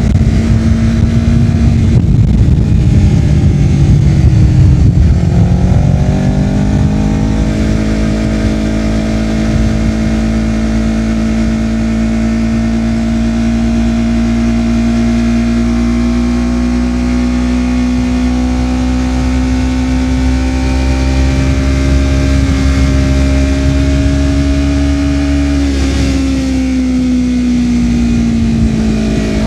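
Honda CBR250RR's parallel-twin engine through a Yoshimura R-11 slip-on exhaust, ridden on the road. The note falls away over the first few seconds, picks up again, holds steady with a slowly rising pitch for about twenty seconds, then drops off near the end as the throttle comes off.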